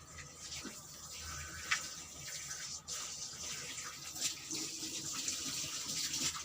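Water running steadily, like a tap pouring, with a few light knocks; the sharpest knock comes just under two seconds in.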